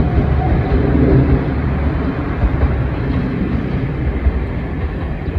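Train running on the line: a steady low rumble with a faint engine drone near the start, slowly dying away.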